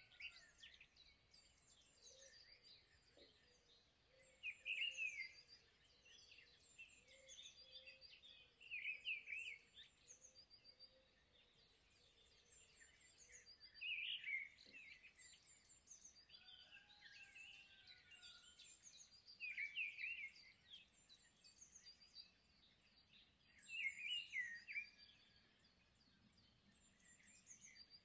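Faint bird chirping and twittering, with a brief louder burst of chirps every four to five seconds.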